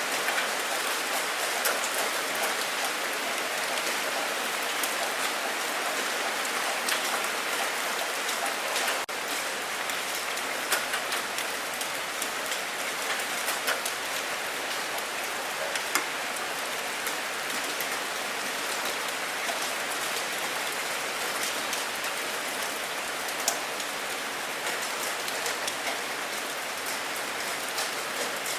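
Steady rain falling, an even hiss with many scattered individual drops tapping sharply through it.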